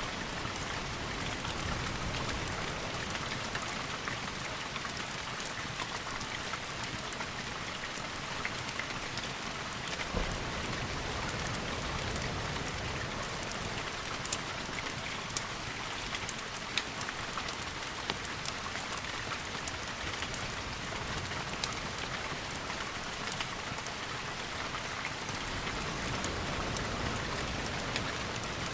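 Steady heavy rain, a dense even hiss, with scattered sharp ticks throughout.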